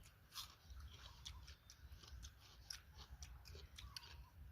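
Faint, close chewing: irregular soft crunches and clicks of someone eating.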